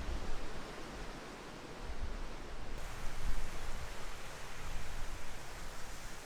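Strong, gusty wind blowing, buffeting the microphone with irregular low rumbles over a steady rushing hiss.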